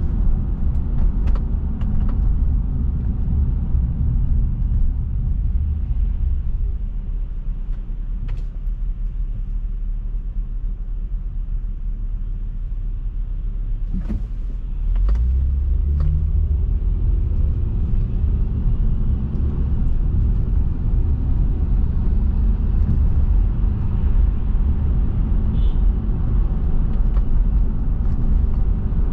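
A car driving, with a steady low road and engine rumble. It eases off for a stretch, then swells again about halfway through, with a few short knocks around that point.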